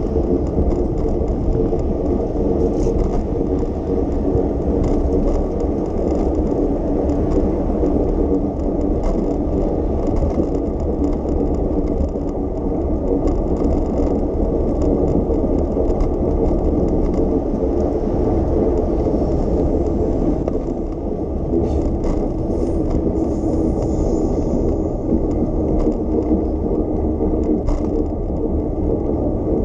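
Bicycle rolling along a city street: a steady rumble of tyres on the road with a fast, continuous rattle from the bike.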